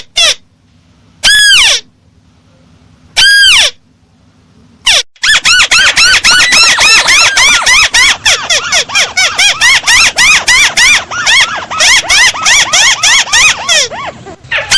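Crake ('burung tikusan') lure call, played loud as a bird-catcher's recording. Two single arching calls come first, then a rapid chattering run of the same notes at about five a second.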